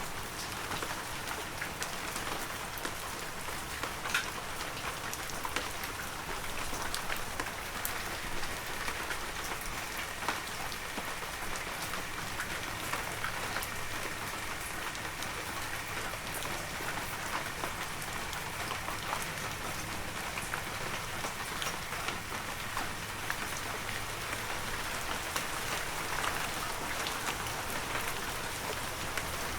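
Heavy rain falling steadily, a dense hiss with many close individual drops ticking and pattering.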